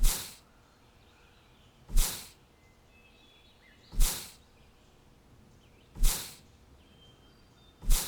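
A short, loud whoosh with a low thump, repeating evenly every two seconds, four times in all, each dying away within half a second. Faint bird chirps and tweets sound between them.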